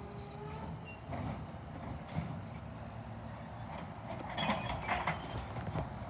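Garbage truck engine running with a low, steady rumble. About four seconds in there is a burst of metallic clattering and rattling.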